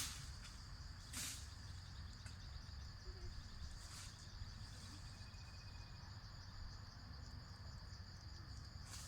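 Steady high-pitched trill of insects, likely crickets, over a low background rumble, with a sharp knock about a second in.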